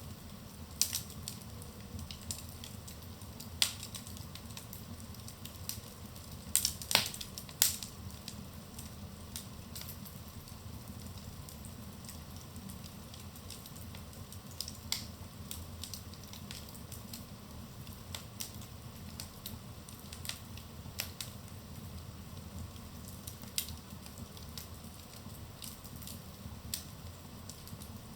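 Wood fire in a fireplace crackling: scattered sharp pops and snaps over a low, steady rumble of the flames, with a quick run of louder pops about seven seconds in.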